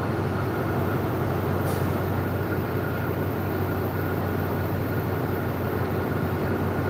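Steady low hum and rumble of a diesel passenger train, heard from inside a carriage, with a faint steady high tone over it.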